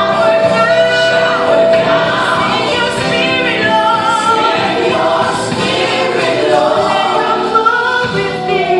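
Gospel song playing: a choir singing held, sliding vocal lines over instrumental backing.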